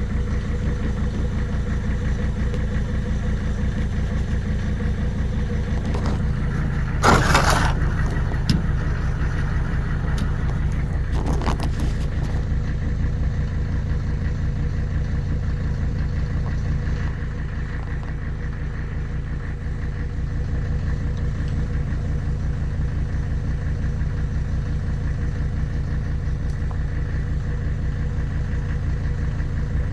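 Old Mercedes five-cylinder diesel engine idling steadily with a fine even clatter. Short bursts of noise come about seven seconds in and again about eleven seconds in.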